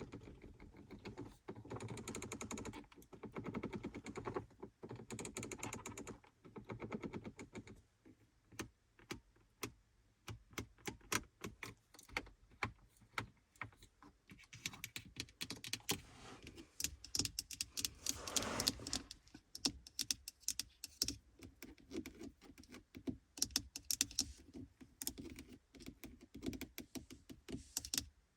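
Fingernails tapping and scratching on car interior surfaces. A stretch of dense scratching gives way to quick, irregular taps, with a brief scratch about two-thirds of the way through.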